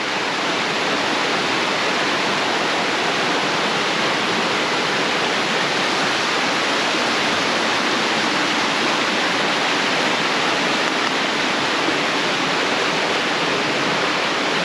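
A small brook swollen by heavy rain, rushing fast over rocks in a steady, unbroken wash of water.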